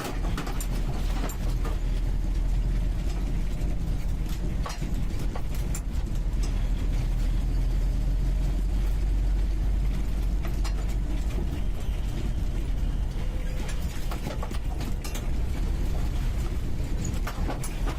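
UAZ 469B's four-cylinder petrol engine running steadily under way, heard from inside the cabin as a deep, even rumble. Scattered knocks and rattles from the body come through as it drives.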